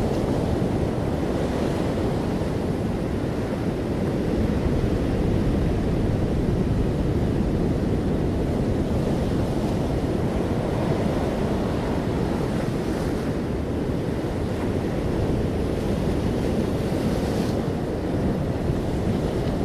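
Ocean surf on a beach: a continuous low rumble of waves, with the higher hiss of breaking wash swelling up a few times.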